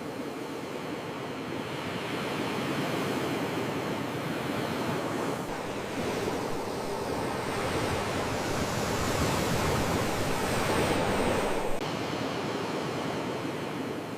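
Sea waves washing onto the shore, a steady rushing surge that builds over several seconds and then falls away abruptly near the end.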